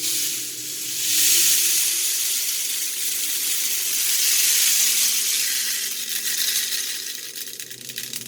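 Homemade PVC rain stick being tipped: BBs cascading down through the pipe past split rings of thicker PVC fitted inside, making a dense, rain-like rushing hiss that swells about a second in and slowly dies away near the end.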